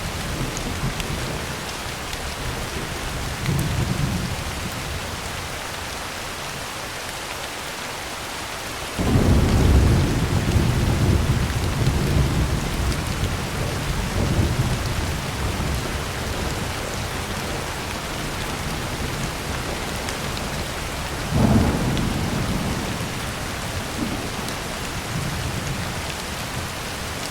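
Heavy rain falling steadily on a tin roof, with thunder. A low rumble comes about four seconds in. A sudden loud thunderclap comes about nine seconds in and rumbles on for several seconds, and another sharp clap follows about twenty-one seconds in.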